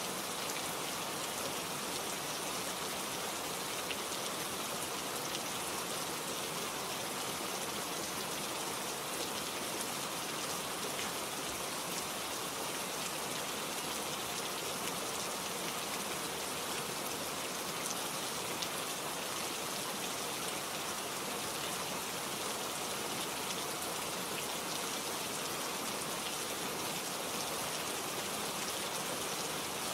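Steady rain falling, with a dense patter of drops hitting leaves and other surfaces.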